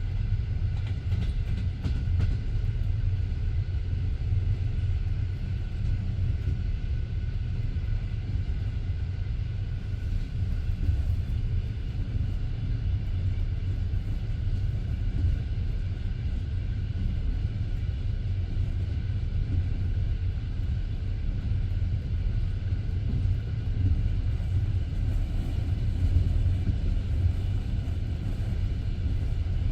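Passenger train carriage rolling steadily along the track, a continuous low rumble of wheels on rails heard from inside the car.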